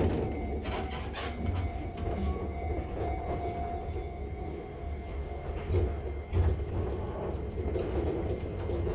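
Enoden electric train running, heard from inside the carriage: a steady low rumble of wheels on the track with occasional short clacks.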